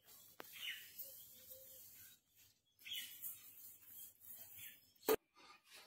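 Pet parrot making faint, scattered chirps and short calls, with one sharp click about five seconds in.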